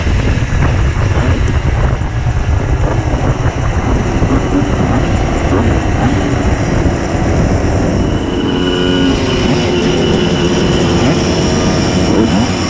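Simson S51 moped's tuned 90 cc reed-valve two-stroke engine running under way, its pitch shifting with the throttle; a steadier engine note joins about eight seconds in.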